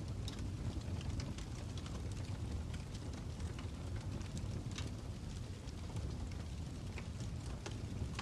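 Fire crackling: a steady low rumble with many small, irregular pops and snaps scattered through it.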